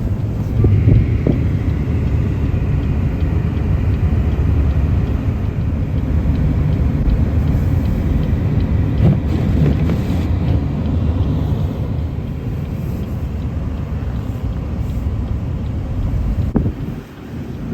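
Strong blizzard wind buffeting the microphone: a loud, continuous low rumble that surges and eases unevenly.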